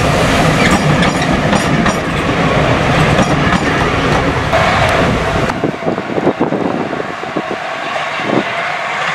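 Steam-hauled train of passenger carriages rolling past, wheels clicking over the rail joints. The sound cuts off abruptly about five and a half seconds in, leaving a few scattered thumps.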